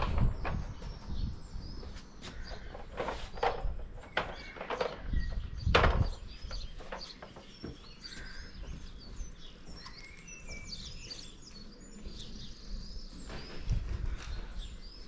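Small birds chirping and singing, with a few knocks and thuds in the first six seconds, the loudest about six seconds in.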